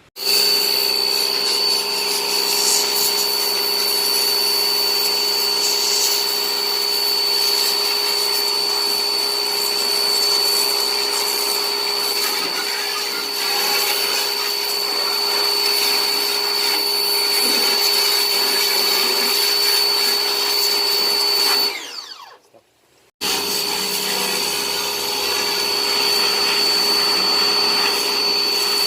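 High-speed electric motor switched on and running with a steady high whine. About 22 seconds in it is switched off and winds down with a falling pitch, then starts again about a second later.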